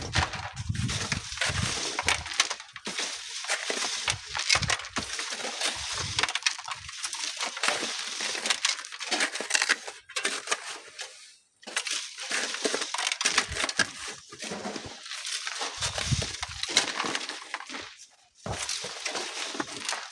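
Continuous gritty crunching and clinking of sand and small stones being worked, with gusts of strong wind buffeting the microphone, most heavily near the start and again late on.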